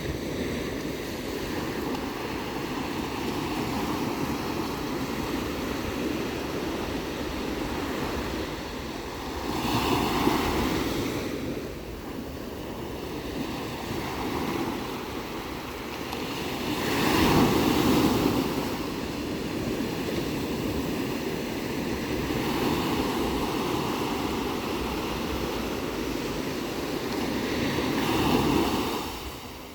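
Ocean surf: a steady wash of waves with three bigger waves breaking, about a third of the way in, past the middle (the loudest), and near the end.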